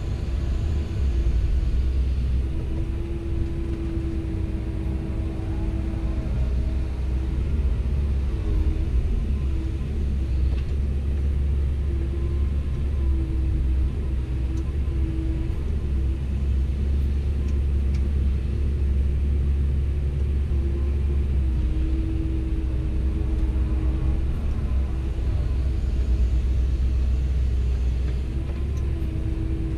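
Komatsu PC170LC-10 excavator's diesel engine running under work with a steady low rumble, and a droning tone above it that shifts in pitch now and then as the hydraulics are worked.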